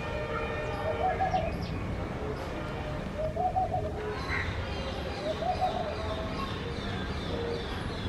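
Birds calling: a short, low, pulsing call repeated four times about two seconds apart, with fainter higher chirps between, over a steady low background hum.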